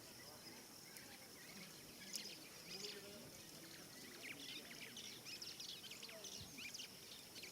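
Faint evening savannah ambience: many quick, high bird chirps from about two seconds in, over a steady high-pitched drone.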